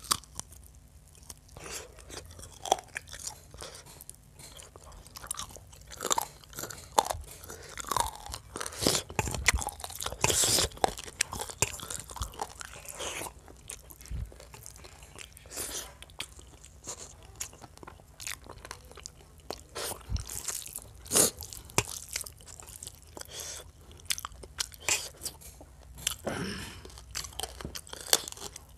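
A man chewing mouthfuls of chicken curry and rice close to the microphone, with many irregular sharp, crunchy clicks from the chewing.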